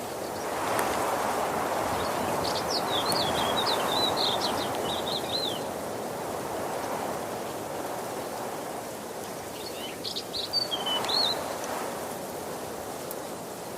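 Waterfall: a steady rush of falling water that swells louder twice. A songbird sings two short, quick twittering phrases over it, one a couple of seconds in and another about ten seconds in.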